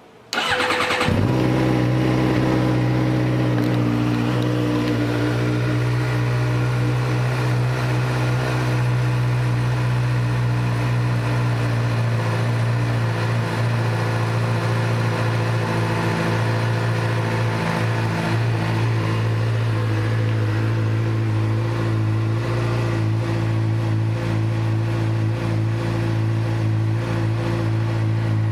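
2015 Suzuki GSX-R600's inline-four engine with a Yoshimura exhaust starts about half a second in, catching at once, and then idles steadily.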